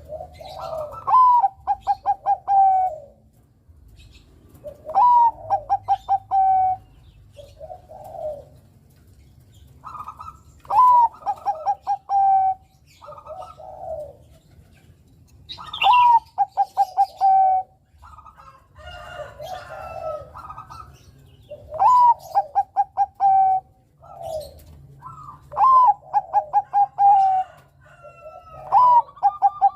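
Bangkok-type zebra dove (perkutut) singing its cooing song seven times. Each phrase is a swooping opening note followed by a quick run of five or six short, clipped coos.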